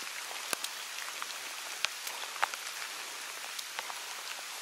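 Steady rain hiss with irregular sharp ticks of drops striking close by, one louder tick about half a second in.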